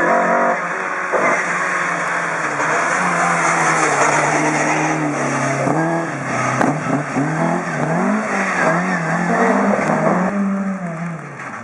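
Rally car engine at full race pace, its pitch rising and dropping again and again as it revs through gear changes and throttle lifts, with one sharp crack about six and a half seconds in. It fades near the end as the car moves away.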